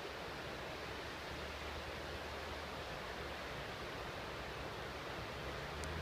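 Steady rushing noise with a faint low hum that comes in about a second in.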